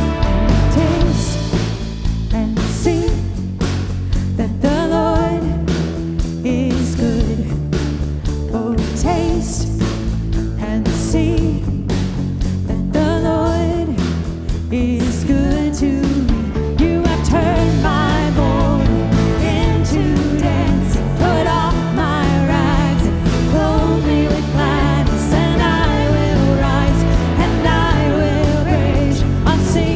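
Worship band playing a song with a sung lead vocal over guitar, bass and drums.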